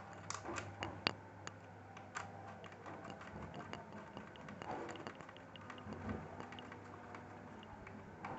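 Light, irregular clicks and taps of small screws, a screwdriver and plastic casing parts being handled while an HP Compaq CQ40 laptop is reassembled; the clicks come thickest in the first couple of seconds, then thin out.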